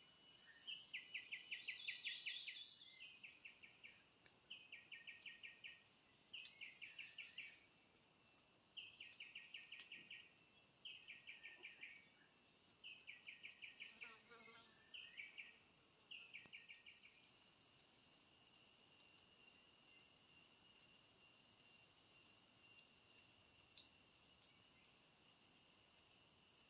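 Forest insects: one insect calls in short pulsed trills, about one every two seconds, and stops a little past halfway. A faint, steady high buzz of other insects runs underneath.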